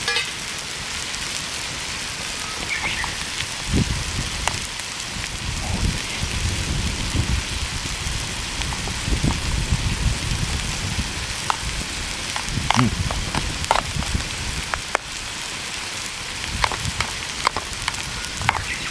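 Food sizzling in a pan over a campfire, a steady hiss with scattered sharp crackles of burning wood.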